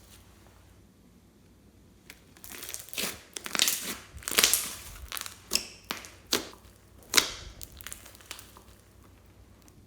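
Slime being squeezed and worked by hand, giving a run of sharp, irregular crackles and pops as air pockets burst. It starts about two seconds in and dies away near the end.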